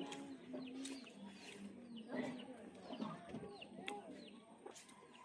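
Faint bird calls: low clucking calls and short, high, falling chirps, with a few light clicks.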